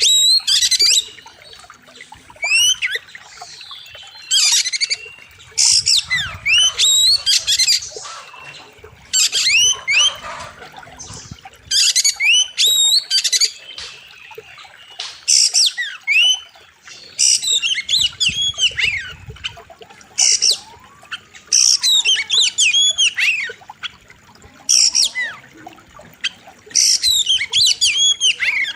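Oriental magpie-robin (kacer) singing loudly: repeated bursts of rapid whistled notes with sharp upward and downward glides, mixed with harsher notes, a new phrase every second or two.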